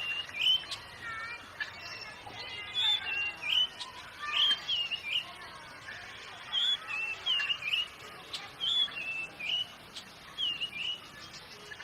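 Oriental magpie-robin (kacer) singing: a steady run of short, clear whistled notes that bend up and down, several each second, with fainter chirps underneath.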